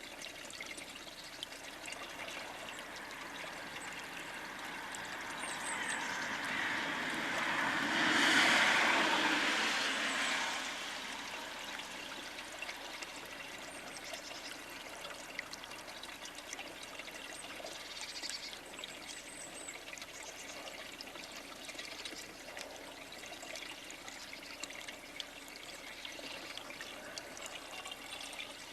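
Steady trickling of water. A louder whoosh swells up over a few seconds, peaks about eight seconds in and dies away by about eleven seconds.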